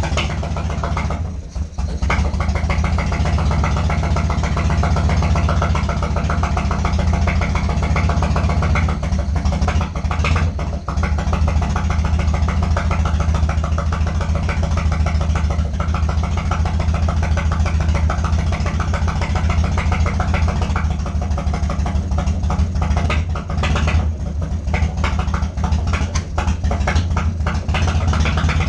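1995 Harley-Davidson Wide Glide's Evolution V-twin running just after its first start in nine years, on full choke with a new aftermarket carburetor. It stumbles briefly a second or two in, then settles into a steady idle.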